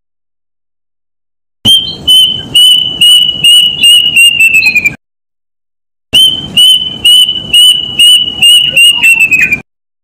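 A bird's loud whistled call: a run of repeated high notes, about three a second, on one pitch that sags slightly near the end. The run is given twice, each starting and stopping abruptly, with a short gap of silence between.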